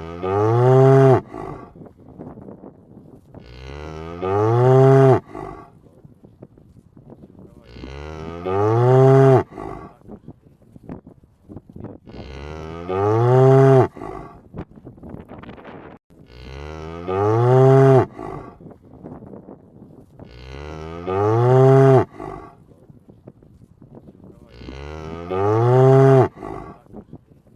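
Cow mooing: seven long moos, one about every four seconds, each rising and then falling in pitch, with quieter background noise between them.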